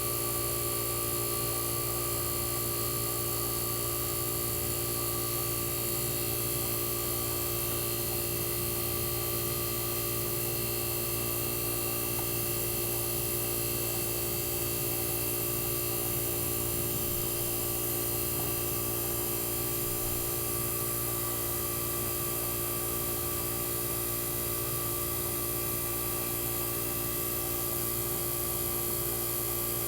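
1965 Fedders Weather Wheel air conditioner running, its Tecumseh AJM reciprocating compressor giving a steady, unchanging hum.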